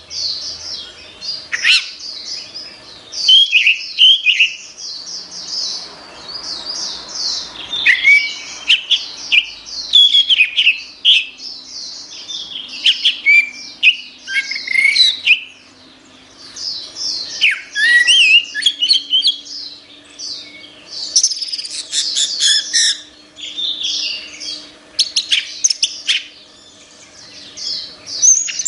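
Orange-headed thrush singing a long, fast, varied song of high whistled and chattering phrases, in bursts separated by short pauses.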